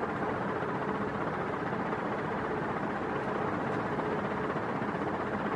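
1987 NuTone Proline 48-inch industrial ceiling fan running steadily at its highest speed: an even rush of air from the blades with a faint steady hum under it.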